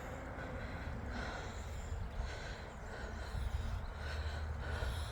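A small creek flowing with a steady, even rush of water. There is low wind rumble on the microphone and a few soft breaths close by.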